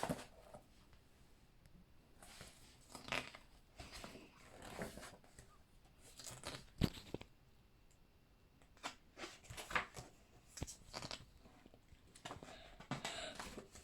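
Pages of a large paper book being turned and handled: faint, irregular paper rustles with a few sharp clicks.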